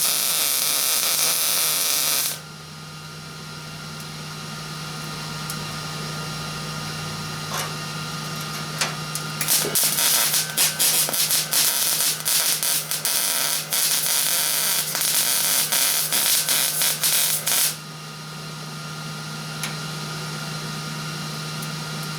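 MIG welder laying bead: a short steady burst of arc hiss, then after a pause with only the welder's low hum, about eight seconds of irregular, sputtering crackle. The erratic arc is, by the welder's own reckoning, a sign of a poor ground, with the work too far from the ground clamp.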